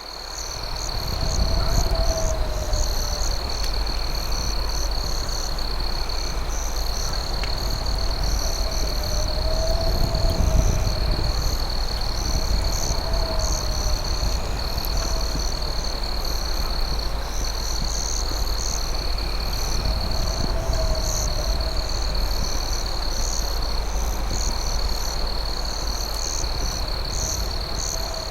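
Night ambience of crickets trilling steadily in a high continuous tone, with pulsing insect chirps above it and a lower wavering call returning every few seconds, over a constant low rumble. It fades in over the first two seconds.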